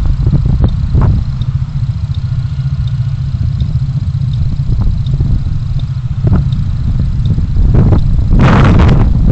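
Car driving, heard through a dashcam: a steady low rumble of engine and road noise with a few light knocks. A louder rushing noise swells for about half a second near the end.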